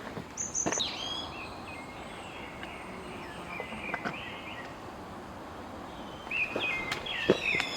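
Songbirds chirping in short warbling phrases, livelier near the end. A few footsteps fall on the forest trail.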